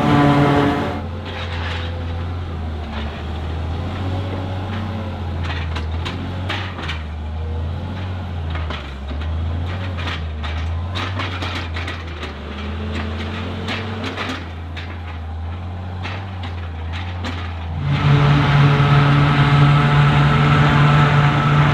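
Diesel engines of silage-harvest farm machinery. A loud, steady high-revving engine drops away after about a second to a lower rumble with scattered clicks and rattles, and the loud steady engine returns near the end.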